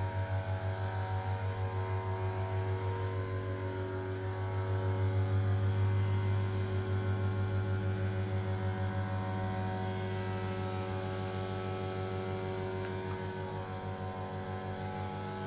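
Hydraulic elevator pump unit of a 1989 Kone rope hydraulic lift running in its machine room as it lifts the car: a steady deep electric-motor hum with a stack of steady whining tones above it, pulsing quickly in level. It swells a little about five seconds in and eases slightly later on.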